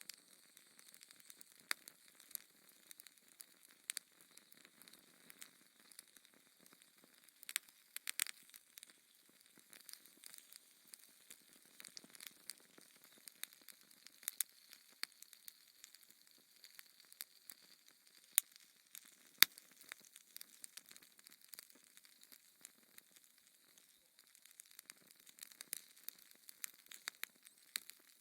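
Wood fire crackling in a fireplace: irregular sharp pops and snaps over a soft steady hiss, with two louder pops about two-thirds of the way through.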